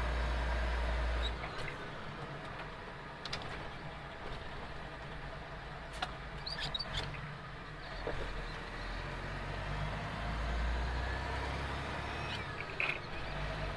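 Semi-truck's diesel engine running while driving, heard from inside the cab as a low hum, with road noise and a few faint clicks. The engine note drops about a second in and picks up again later.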